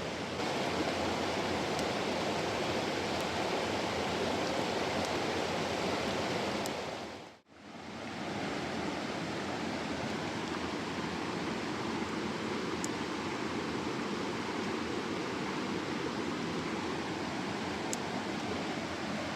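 Mountain stream rushing steadily. The sound dips away and returns about a third of the way through, with a few faint high ticks over it.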